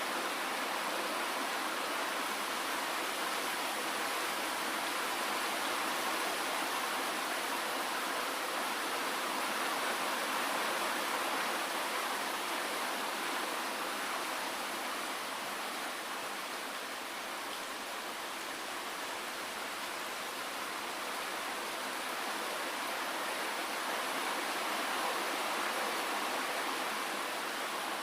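Steady rain falling, a dense even hiss with no single drops standing out, swelling and easing only slightly.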